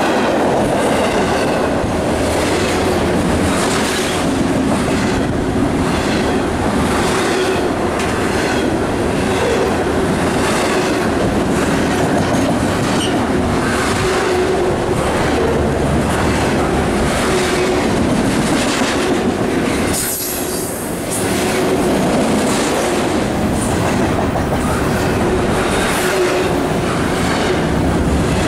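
A long freight train's cars rolling past at speed, their wheels clicking in a steady rhythm over the rail joints beneath a continuous loud rumble. The sound dips briefly about two-thirds of the way through.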